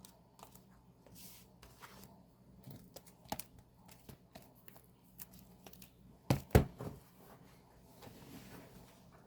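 Handling and unwrapping of a K-pop album package: packaging tearing and crinkling, with scattered small clicks. A pair of sharp knocks about six and a half seconds in is the loudest sound.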